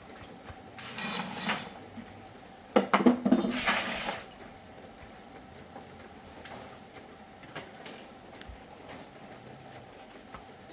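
Two short bursts of metallic clattering and clinking, the second and louder one about three seconds in, over a faint steady background.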